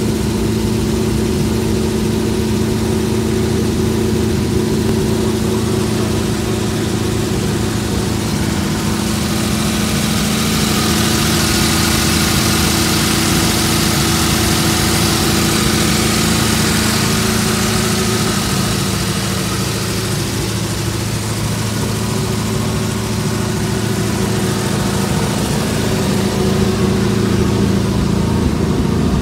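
Chevrolet Camaro's engine idling steadily while the engine and transmission warm up, with a brighter hiss in the middle stretch.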